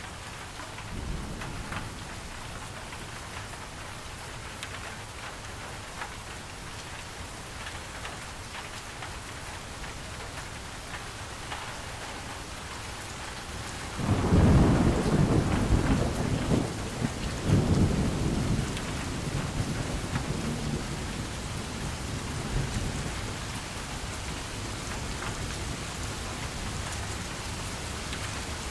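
Steady rain with scattered drop ticks. About halfway through, a loud thunderclap breaks in and rolls on in swells for several seconds before fading back under the rain.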